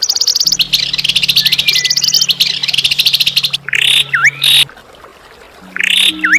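A songbird sings a fast, rapid trill for about three and a half seconds. It follows this with sharp swooping calls, once just before the middle and again near the end. A low steady hum runs underneath, dropping out briefly in the pause between the calls.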